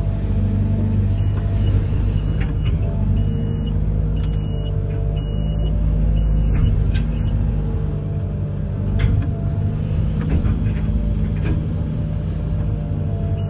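Amphibious excavator's diesel engine running steadily under load, with a few sharp clanks in the second half.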